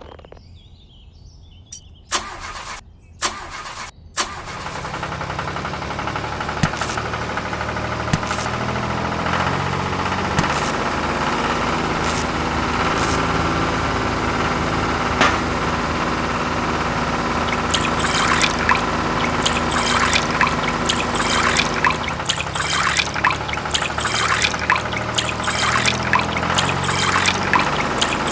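A few sharp clicks, then a small motor starts about four seconds in and runs steadily, belt-driving a miniature tomato crusher. About two-thirds of the way through, irregular crackling and clicking come over the motor as tomatoes are crushed.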